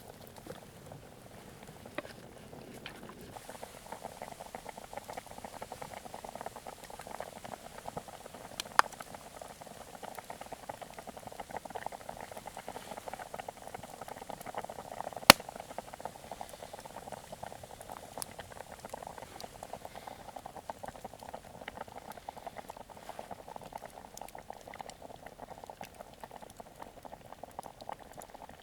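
A pot of liquid bubbling steadily at the boil over a campfire, growing louder a few seconds in. A few sharp clicks sound over it, the loudest about fifteen seconds in.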